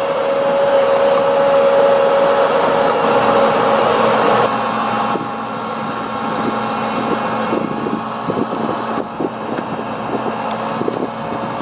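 Heavy diesel machinery running, with a steady whine for the first four and a half seconds. It then changes abruptly to a lower steady engine note, with a series of light knocks and clanks in the second half.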